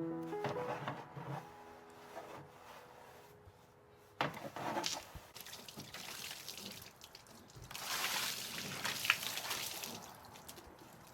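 Water splashing and spraying in bursts: a sudden one about four seconds in, and a longer one from about eight to ten seconds.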